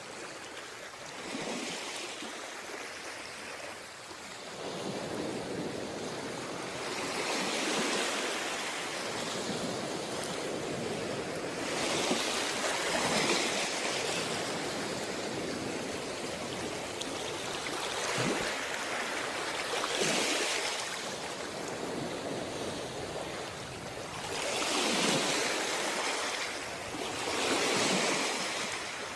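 Sea waves washing in, a steady rush of water that swells into louder surges every few seconds.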